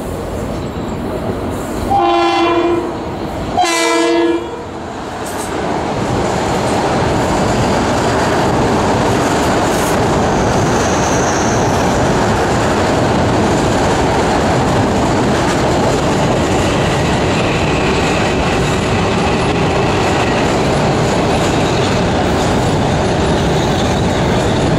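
Metro-North commuter train horn sounding two blasts about a second long, a couple of seconds in. Then trains run past close by on both tracks of the elevated line, with the loud, steady noise of wheels running on the rails.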